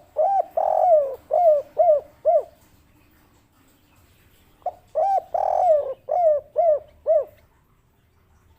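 Spotted dove singing its 'kuk 3' coo twice, about four and a half seconds apart. Each phrase is two short opening notes, a longer drawn-out coo, then three short clipped coos.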